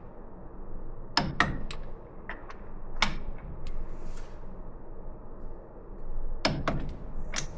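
Sharp metallic knocks and clinks of hand tools on metal parts: three quick strikes about a second in, one more a couple of seconds later, and a cluster of four near the end.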